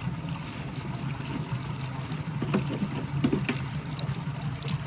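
Mountain stream water running steadily, with a few short knocks around the middle.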